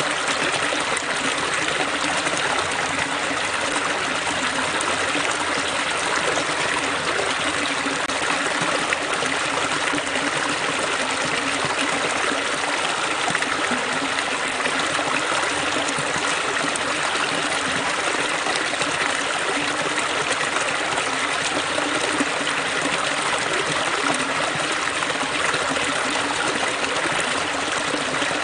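Water streaming and splashing over rocks, a steady even rush with no breaks.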